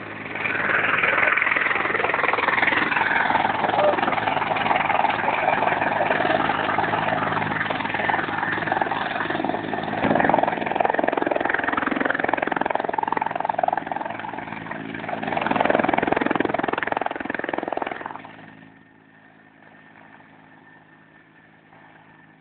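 Helicopter taking off: loud, steady rotor and engine noise with a low hum, which drops away sharply about eighteen seconds in, leaving a much quieter steady hum.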